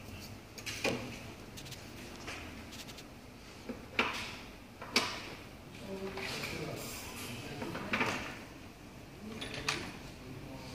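Handling noises on a workbench: about five sharp clicks and knocks with rustling between them.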